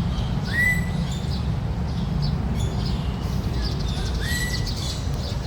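Birds calling: a scatter of short high chirps, with two clear whistled notes that rise and then level off, one about half a second in and one about four seconds in, over a steady low rumble.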